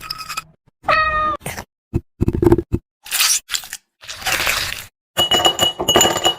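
A cat meowing once, a short call about a second in that holds its pitch and drops at the end, followed by a string of short, choppy noisy sounds broken by sudden silences.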